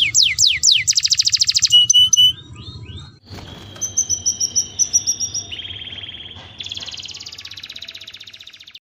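Domestic canary singing: quick falling whistled notes and a fast buzzing trill, then after a short break a row of high chirps and long rattling trills that cut off near the end.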